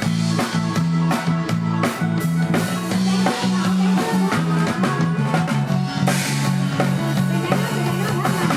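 Live band playing an instrumental passage: a drum-kit beat over a strong bass line, with guitar.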